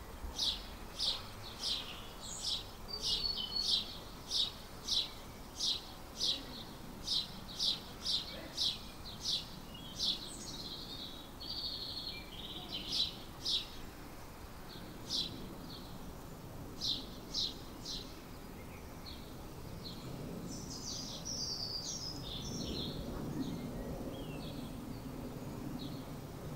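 A garden bird calling: a short high note repeated about twice a second for most of the first two thirds, then fewer notes and a few scattered higher chirps. A steady low background noise rises in the second half.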